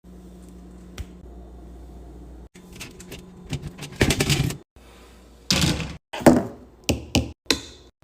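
Items being handled in and around a refrigerator: a sharp tap, then a run of knocks, clatters and rustles, some loud, in short segments that cut in and out abruptly over a steady low hum.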